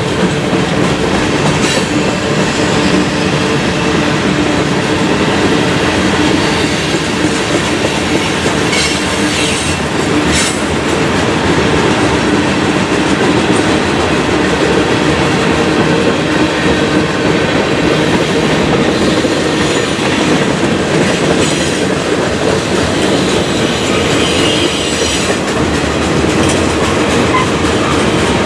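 Freight cars of a mixed freight train rolling past steadily, wheels rumbling and clicking over rail joints, with brief faint wheel squeals about a third of the way in and again near the end.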